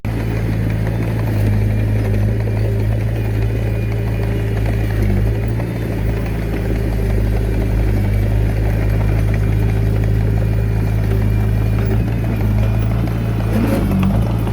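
Komatsu D21A mini bulldozer's diesel engine running steadily under load, a loud, even low drone.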